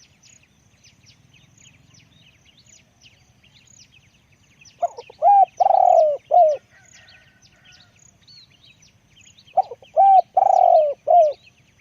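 Spotted dove cooing: two loud phrases of four or five coo notes, each phrase with a longer note in the middle, one about five seconds in and one near the end. Faint high chirps of small birds run underneath.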